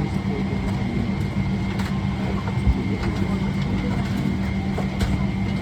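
Steady low drone inside a Boeing 777-300ER airliner cabin, with a thin high steady tone above it and a few faint clicks.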